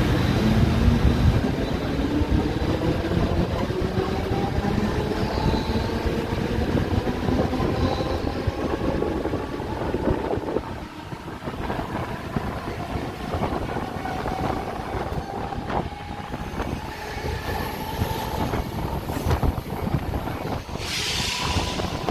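Mumbai electric local train running, heard from inside the luggage compartment. The electric traction motors whine, rising in pitch as the train picks up speed over the first ten seconds, over wheel rumble and rail-joint clicks. A short hiss comes near the end.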